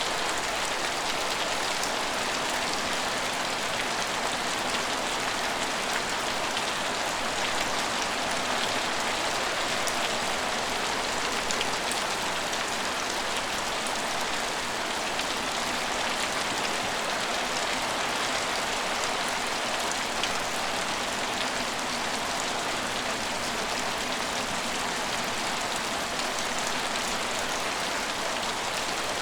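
Steady rain falling, a dense even hiss of many drops that holds at the same level throughout.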